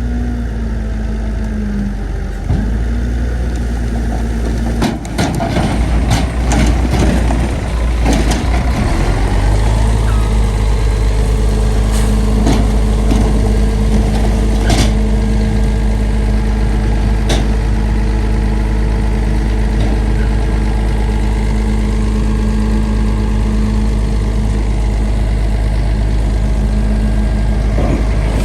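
Heavy diesel engine of a bulldozer running steadily, with a rougher stretch of clatter and knocking a few seconds in and a few sharp clanks later on.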